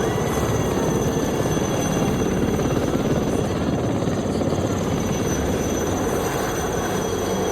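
Aircraft engine noise: a steady, continuous rumble that holds at the same loudness throughout.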